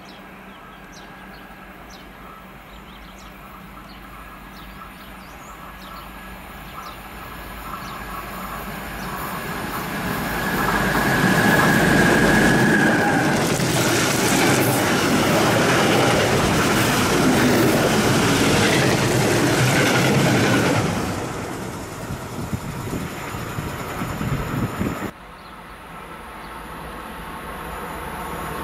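Freight train of covered wagons passing through at speed: its rumble builds over several seconds, holds loud while the wagons roll by with a steady high squeal from the wheels early on, then tapers off. After a sudden drop, another train's approach rises near the end.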